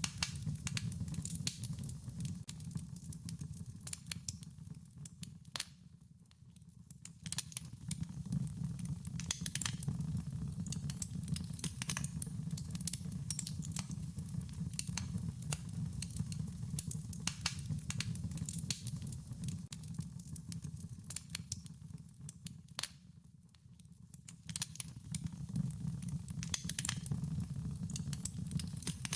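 Wood fire crackling, with frequent sharp pops and snaps over a steady low rumble of the flames. The fire briefly goes quieter twice before picking up again.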